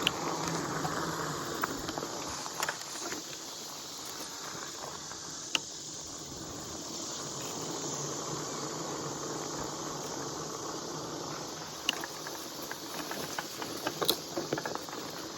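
E-bike being ridden along an overgrown dirt trail: a steady hiss of riding and brushing through vegetation, with scattered sharp clicks and snaps and a faint low hum that comes and goes.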